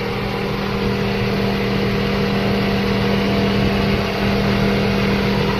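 Carbureted car engine idling steadily under the open hood, a constant hum with no change in speed.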